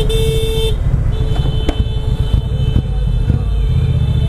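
Motorcycle riding in city traffic: steady engine and wind rumble. Over it runs a steady high-pitched tone that breaks off briefly just under a second in and then resumes.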